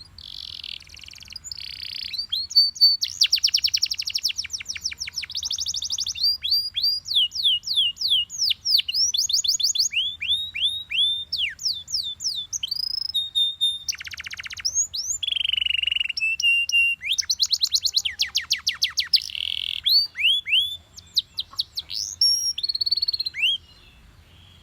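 Domestic canary singing a long, varied song: fast trills of repeated notes, runs of quick falling sweeps and a few held whistled tones, changing phrase every second or two. The song stops shortly before the end.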